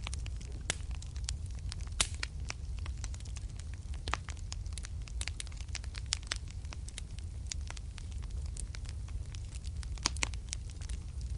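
Fireplace fire crackling, with irregular sharp pops over a steady low rumble. A few louder pops stand out, about two seconds in and again near the end.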